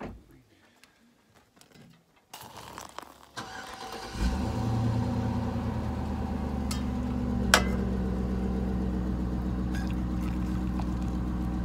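A vehicle engine cranking, catching about four seconds in and then idling steadily, with one sharp click partway through.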